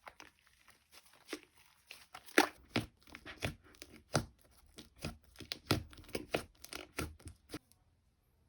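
Slime being squeezed and pulled by hand, giving a run of sharp wet pops and crackles, about two or three a second, that stop shortly before the end.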